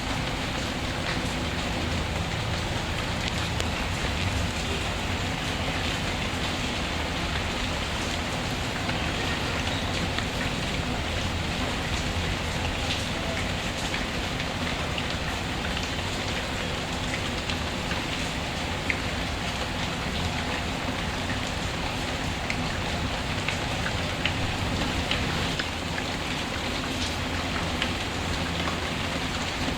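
Steady rain falling on a surface, an even hiss with scattered small sharp ticks.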